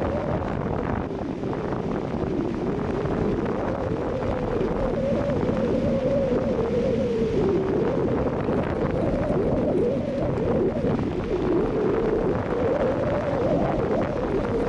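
Strong wind blowing across the microphone: a steady rush with a moaning tone that wavers up and down in pitch.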